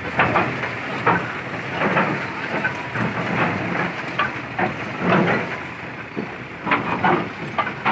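Nissan D308-S piling machine moving down off a lorry: irregular metal clanks and knocks at uneven intervals over a steady engine hum.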